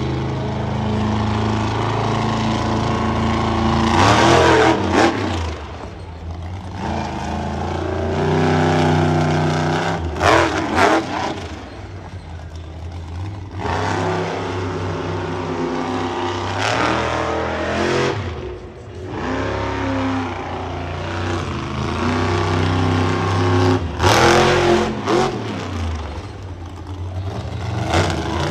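Monster truck engine revving hard and falling back again and again during a freestyle run, with loud surges every few seconds.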